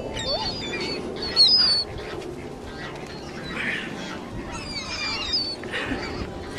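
A flock of birds crowding in for bread, many calling over one another in short squawks and squeals.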